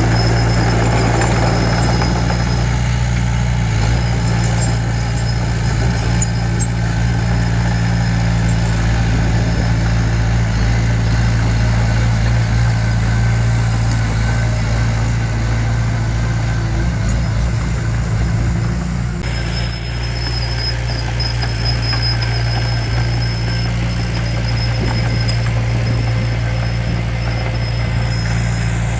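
Heavy diesel engine of earthmoving equipment running steadily, with a constant low hum; the sound shifts slightly about two-thirds of the way through.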